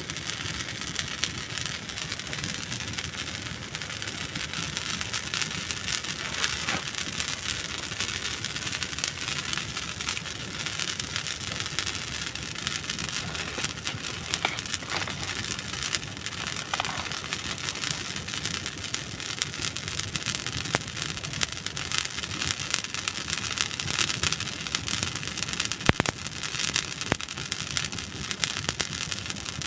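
Campfire of dry wood burning, a dense continuous crackle with scattered sharper pops; one loud snap about 26 seconds in.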